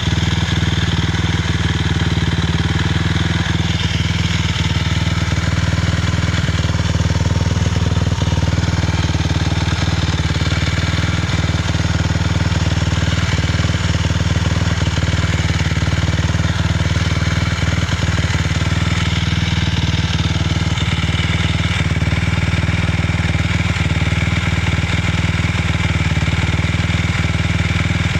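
2006 Suzuki LTR 450 quad's single-cylinder four-stroke engine running at a steady speed, with scattered light ticks. The owner finds the engine noise weird and says it backfires, though it still has power.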